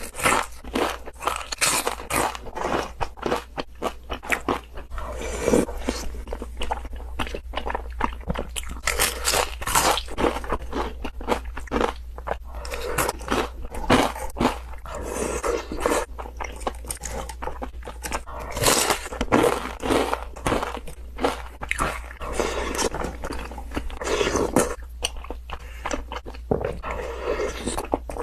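Close-miked eating of crispy deep-fried chicken skin: a dense run of sharp crunches from biting and chewing, with short softer stretches of chewing between them.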